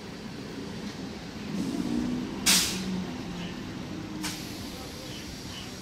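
Electric multiple unit local train rolling slowly along a station platform with a low steady rumble. About two and a half seconds in a short, loud hiss of air brakes sounds, followed by a fainter, briefer hiss a couple of seconds later.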